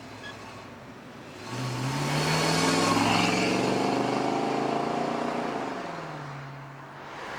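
A car engine revs up hard about a second and a half in as the car accelerates past, stays loud for a few seconds, then fades as it drives away.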